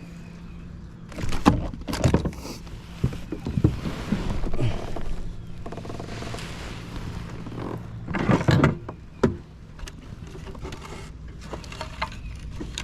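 Knocks, thumps and clatters of gear being handled in a fishing kayak, in two bursts, over a steady low hum.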